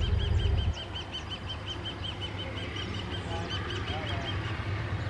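A bird calling in a rapid, even series of high-pitched notes, about six a second, that stops about four seconds in, over a low background rumble that eases soon after the start.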